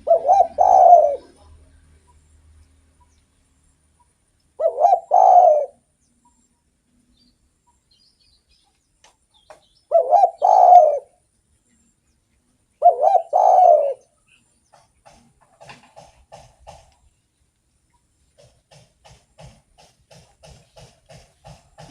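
Spotted dove (derkuku) cooing: four loud phrases of about a second each, several notes to a phrase, spaced about three to five seconds apart.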